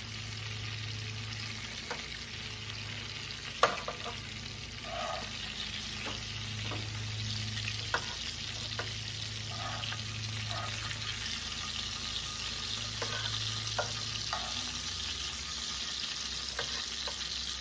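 Chicken frying in butter and fat in cast-iron skillets: a steady sizzle, with a few sharp clicks and taps of metal tongs against the pans as pieces are lifted out, the loudest nearly four seconds in.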